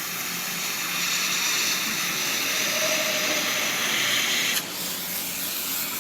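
A steady, loud hiss, like air or spray under pressure, that cuts off suddenly about four and a half seconds in.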